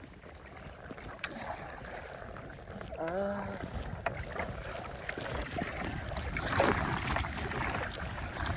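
Kayak paddling through choppy lake water: paddle strokes and waves splashing, with wind rumbling on the microphone. There is a louder splash about seven seconds in and a short vocal grunt about three seconds in.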